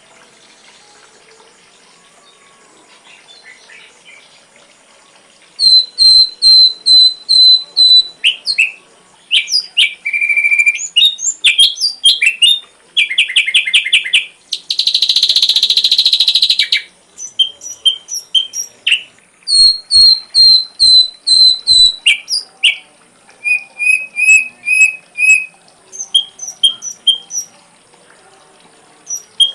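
Ashy drongo song: loud runs of clear, repeated whistled notes in groups of five or six, mixed with varied chattering phrases and a harsh rasping call of about two seconds near the middle. The first five seconds or so hold only faint hiss.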